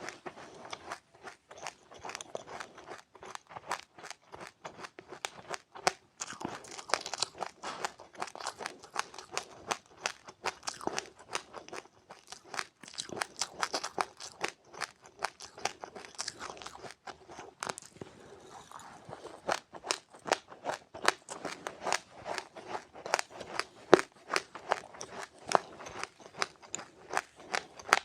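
Close-up chewing of crunchy seeds: a quick, continuous run of small crisp crunches, thinning briefly a little past halfway.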